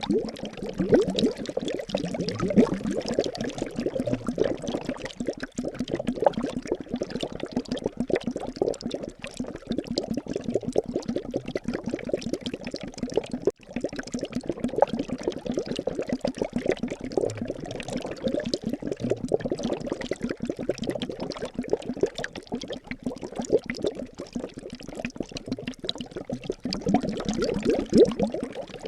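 Liquid bubbling steadily, a dense stream of quick small pops, with a momentary break about halfway through.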